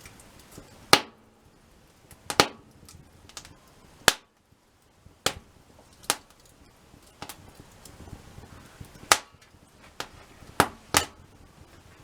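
Wood fire crackling: sharp pops at irregular intervals, about nine loud ones with smaller ticks between, over a faint steady hiss.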